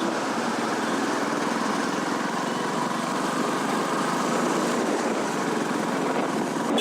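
Royal Enfield Classic 350 motorcycle being ridden at a steady pace, its engine and the road noise making a continuous even din.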